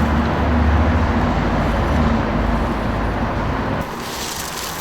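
Car engine and road noise, a steady low hum; about four seconds in it gives way to a brighter hiss.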